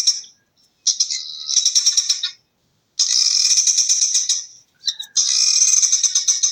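Guinea fowl calling: four bursts of rapid, high-pitched chattering calls, each one to two seconds long, with short pauses between them.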